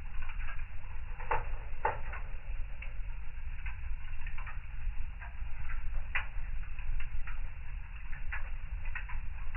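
Fireplace fire crackling: irregular snaps and pops, a few sharper ones, over a steady low rumble.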